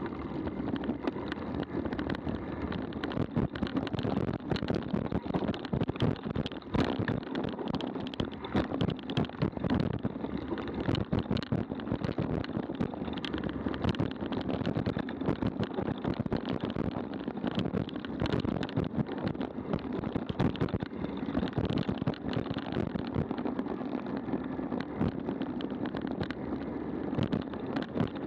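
Mountain bike riding fast down a rough dirt trail: a steady rumble of tyres and wind on the microphone, with constant rattles and knocks as the bike hits bumps.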